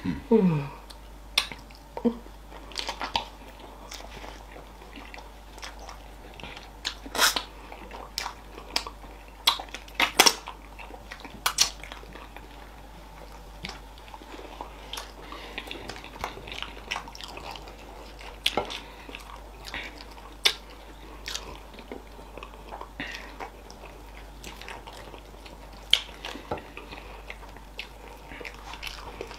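Two people eating fufu and okra soup by hand close to the microphone: wet chewing and mouth sounds, with sharp clicks coming irregularly, loudest a little before the middle.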